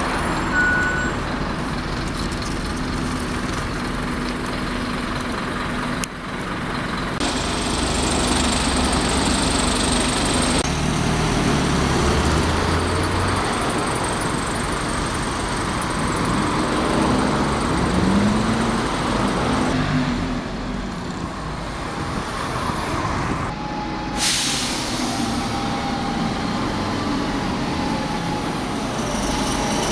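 Diesel bus engines running, with the pitch rising and falling as they pull away. About 24 seconds in there is a loud, sudden hiss typical of air brakes.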